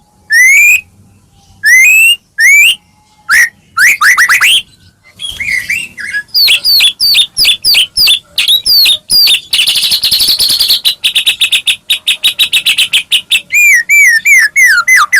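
White-rumped shama (murai batu) singing loudly. Rising whistled notes with short pauses lead into quick runs of notes, then a fast buzzy trill about ten seconds in, and repeated slurred whistles near the end.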